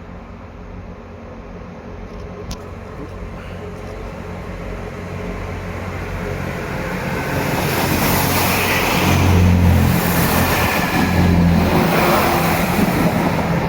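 Diesel train approaching along the sea-wall railway, its engine and wheel noise growing steadily louder and loudest over the last five seconds or so.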